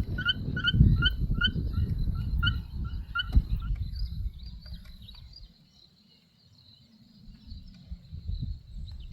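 A short animal call repeated about three times a second over a low rumble, fading out about three and a half seconds in. A faint, steady high-pitched trill carries on after it.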